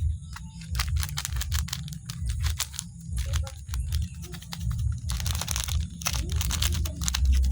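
Close-miked crisp clicks and crackles of crispy biscuits and their packaging being handled, with a denser rustling stretch about five seconds in.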